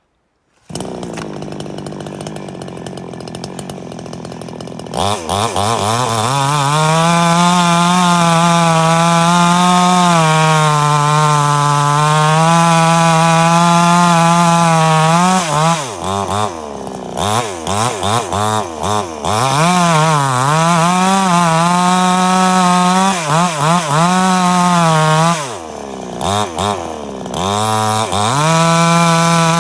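Chainsaw engine running: lower for the first few seconds, then revved up to a high, steady whine about five seconds in and held for roughly ten seconds. It then drops off and is revved up again repeatedly, in short blips and longer pulls.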